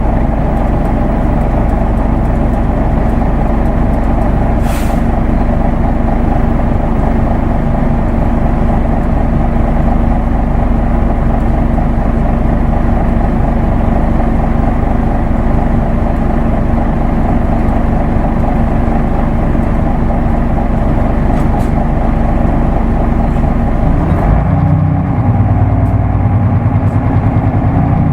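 Isuzu Erga Mio route bus with a manual gearbox, heard from inside while it drives: a steady diesel engine and road drone. About 24 s in, the engine note changes to a lower, heavier throb.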